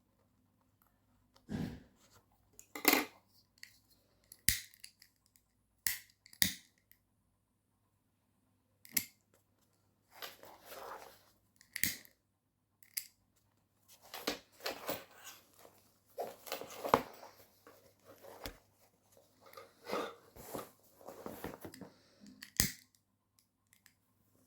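Intermittent hand work on material: sharp clicks and short rustling or cutting sounds in irregular bursts, separated by pauses, busier in the second half.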